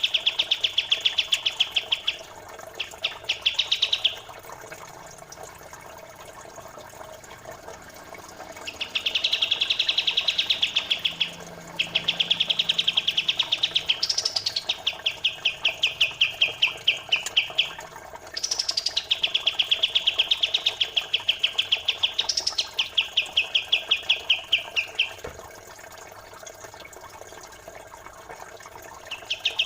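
Songbird training recording of a pied triller and a Eurasian tree sparrow: bursts of fast, rapid-fire chattering trills a few seconds long, some opening with a higher note that drops into the trill, over a faint background of flowing water.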